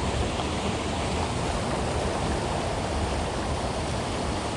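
Small creek rushing over rapids: a steady, even wash of moving water.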